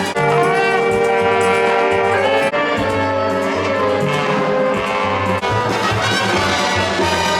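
Live band playing brass-led music, trumpets and trombones holding sustained notes and chords.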